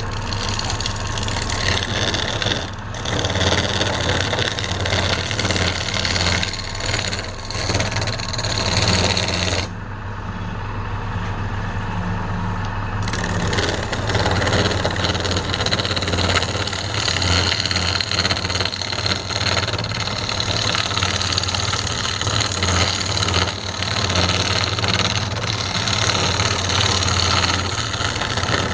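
Wood lathe motor running with a steady hum while a turning tool cuts a spinning wooden blank, giving a rough, varying cutting noise. The cutting stops for a few seconds about a third of the way in, then resumes.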